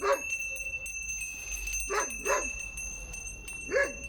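A dog barking in short single barks, four times: one at the start, two close together about halfway, and one near the end.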